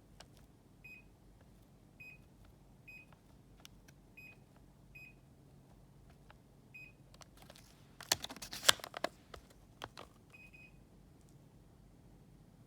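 Daikin air conditioner giving short, identical high beeps, seven in all at irregular spacing, each acknowledging a remote-control button press, with faint button clicks between them. Near the middle there is a loud burst of rustling and clattering handling noise.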